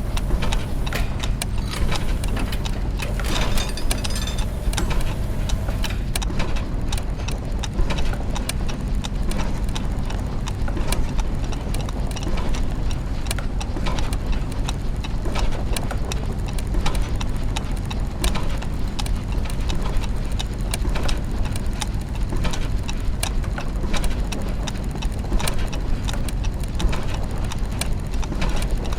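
Clockwork mechanisms and gears running, with many irregular ticks and ratchet clicks over a steady low mechanical hum.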